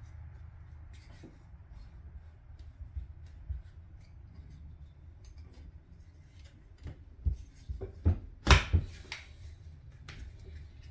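Scattered clicks and knocks of outboard motor parts being handled and fitted by hand, over a steady low hum. A few louder knocks come close together past the middle.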